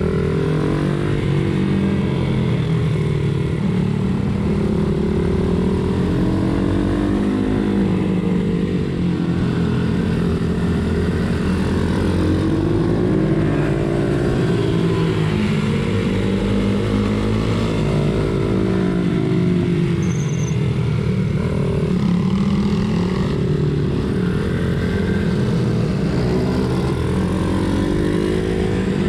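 Pit bike engine racing, its revs repeatedly rising and falling every few seconds as the throttle is worked on and off, over a steady low rumble.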